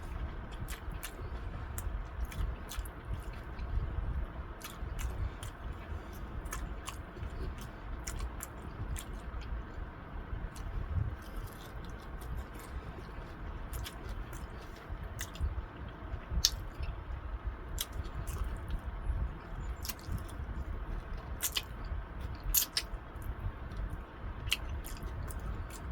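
A person chewing fried chicken dipped in sauce and ranch close to the microphone: wet chewing and biting with frequent short sharp mouth clicks.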